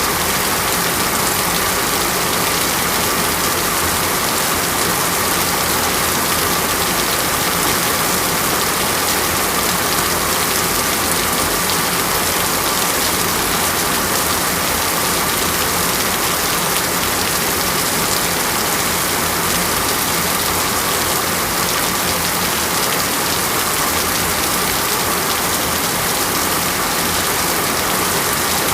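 Steady heavy rain falling, an even unbroken hiss of rain on surfaces.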